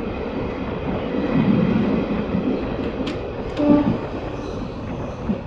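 Indian Railways passenger coach running along the track, heard through its open barred window: a steady rumble of wheels on rails. A few sharp clicks come a little past halfway, followed by a brief pitched note that is the loudest moment.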